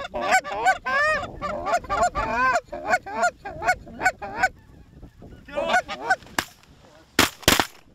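Geese honking and clucking in a rapid series of short calls, then two shotgun shots in quick succession near the end.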